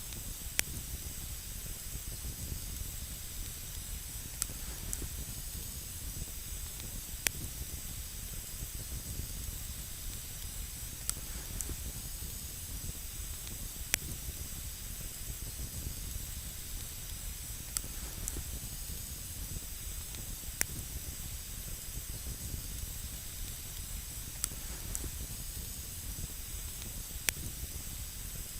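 Wood campfire burning with a steady hiss and a low rumble, broken by sharp single crackles and pops every couple of seconds.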